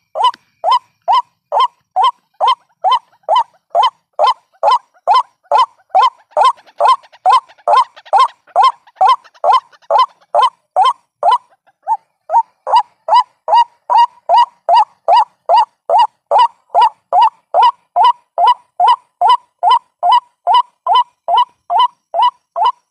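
White-breasted waterhen calls played as a bird-trapping lure: the same short croaking note repeated at an even pace, nearly three a second. There is one brief break a little before halfway.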